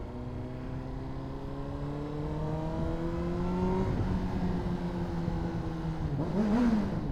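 Honda CBR600RR inline-four sportbike engine pulling under way, its pitch climbing slowly through the first few seconds and then holding. Near the end the revs give a brief quick rise and fall.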